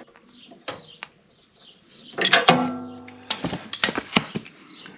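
Metal hand tools working on the lawn tractor's mower deck hardware: a loud metallic clank about halfway through with a short ringing tone after it, then several sharp clicks and knocks. Birds chirp faintly.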